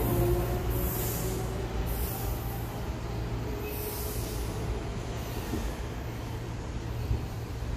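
Electric commuter train pulling away along the platform, its running noise and faint motor tones fading as it recedes, over a steady low hum.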